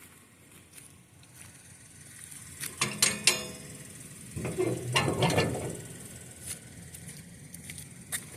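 Things being moved about in a dumpster: a few sharp knocks and clicks about three seconds in, then a stretch of clattering and rustling about a second later.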